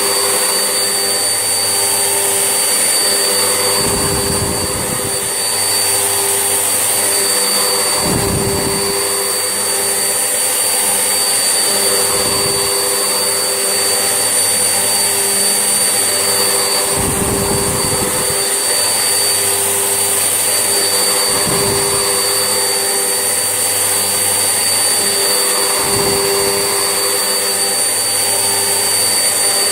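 Vax Essentials vacuum cleaner running steadily with a high motor whine, and a low rumble rising briefly every four seconds or so.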